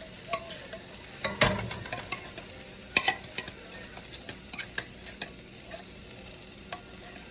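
A spoon stirring in a skillet of onions, green peppers and cream of mushroom soup, clicking and knocking against the pan, with a louder knock about one and a half seconds in and again at three, over a low steady sizzle from the pan.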